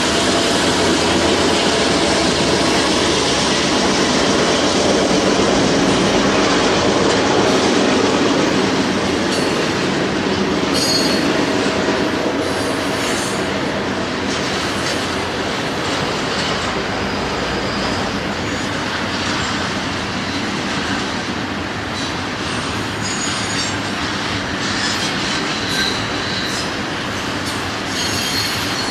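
Freight train cars rolling past on the rails with a steady rumble and rattle of the wheels. High wheel squeals come in about eleven seconds in and again over the last few seconds.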